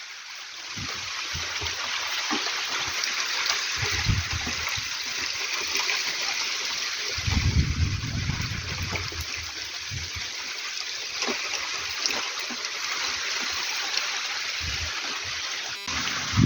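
Heavy rain falling steadily, with water splashing and running. There is a low rumble about seven seconds in.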